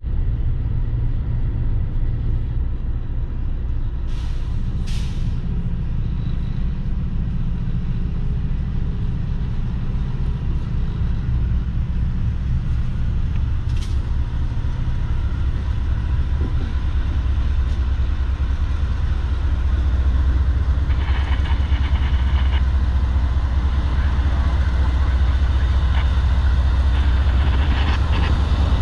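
CSX freight train's diesel locomotives running with a steady low rumble that grows a little louder about twenty seconds in. Brief hisses come about four and five seconds in and again around fourteen seconds.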